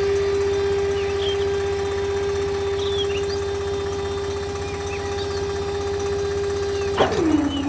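A small motor running with a steady hum over a fast low rattle. Near the end a sudden click comes, and the hum drops to a lower pitch.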